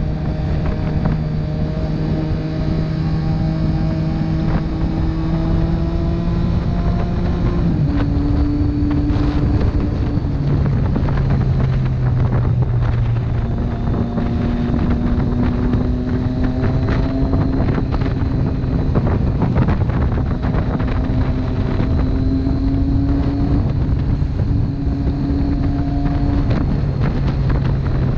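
Motorcycle engine running on the road, its note holding steady with a few sudden steps in pitch, under constant wind noise on the microphone.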